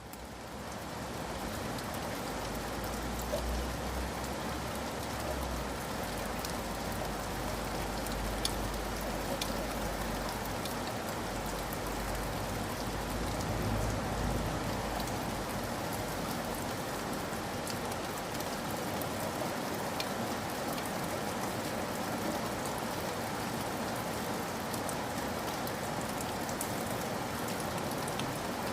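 Steady rain pattering, fading in at the start, with a low rumble underneath that dies away about two-thirds of the way through.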